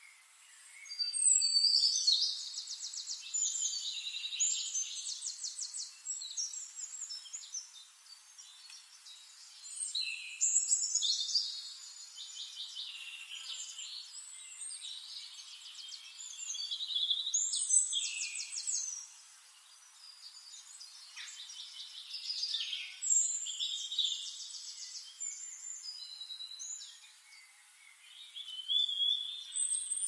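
Songbird singing: phrases of rapid trills and high notes, each a few seconds long, coming again every five to seven seconds.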